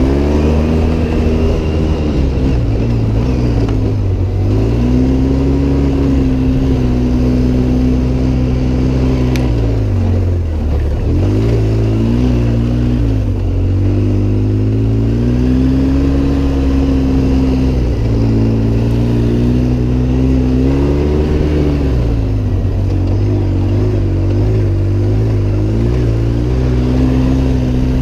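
Off-road vehicle's engine running hard on the drive across the dunes. Its pitch holds steady, drops and climbs again several times as the vehicle slows and speeds up.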